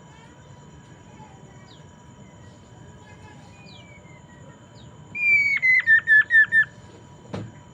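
Poksay mandarin, a laughingthrush, singing: faint scattered chirps, then about five seconds in a loud phrase of one falling whistle followed by six quick repeated notes. A short sharp click comes near the end.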